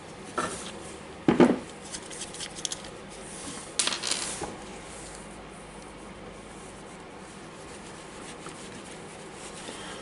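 Small plastic and metal parts of a cordless angle grinder being handled during disassembly: a few clicks and knocks in the first half, the loudest a little over a second in, then only quiet room tone.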